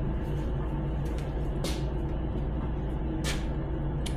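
Steady low mechanical hum, with two short hisses about one and a half and three seconds in.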